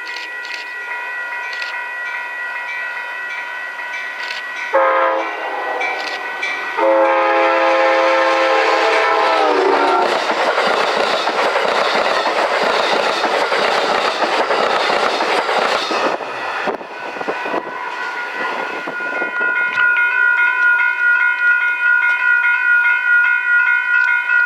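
A passing train's multi-note horn sounds a short blast, then a longer one whose pitch drops at its end as the train goes by. The train then rushes past with loud wheel and rail noise for about six seconds before fading. A steady high ringing tone runs underneath throughout.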